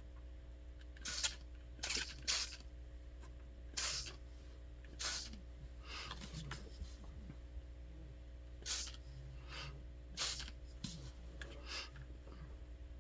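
Hand spray bottle spritzing a mist onto the wet paint, in about eight short hissing sprays at irregular intervals, some in quick pairs.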